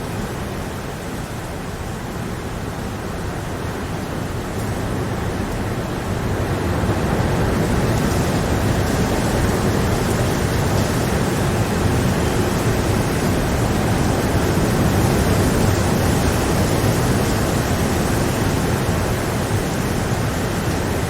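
Steady rain, a dense even hiss that swells louder between about four and eight seconds in, then holds.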